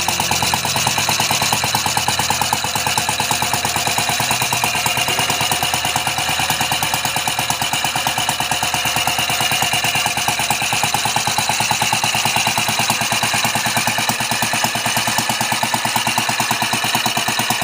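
Homemade beer-can engine running steadily, its firing a rapid, even train of sharp pops.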